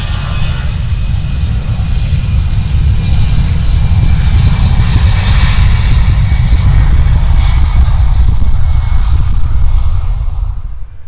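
Airliner's engines passing close by: a loud, steady roar with high whining tones, building through the middle and fading away sharply near the end.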